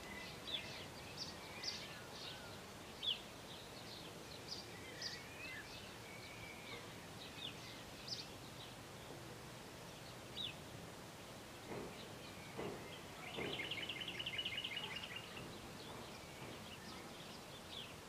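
Small wild birds calling: scattered short, high chirps through the first half, then a fast, evenly pulsed trill lasting about two seconds, a little after two thirds of the way through.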